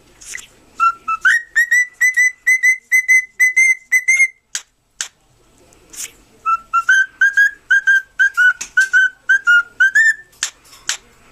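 Cockatiel whistling a tune: two phrases of short, quick, repeated notes, each opening with a step up in pitch, with a pause between them. A few sharp clicks sound in the gaps.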